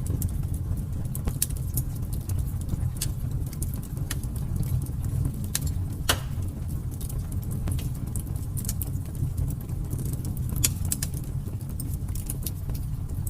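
Fire burning in a fireplace: a steady low rumble with scattered sharp crackles and pops, the loudest pop about six seconds in.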